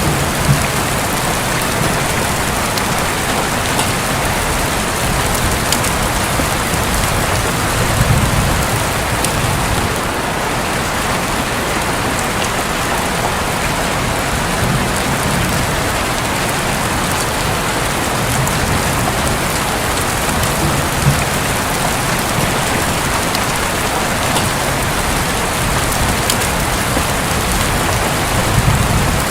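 Steady heavy rain falling on a roof, with a few low rumbles of thunder now and then.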